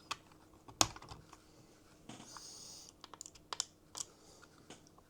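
Scattered light clicks and taps of small plastic model-locomotive parts and tools being handled on a workbench, with a brief scrape about two seconds in.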